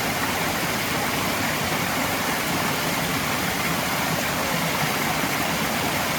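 Steady rushing of a swollen stream running high after rain, an even wash of water noise with no breaks.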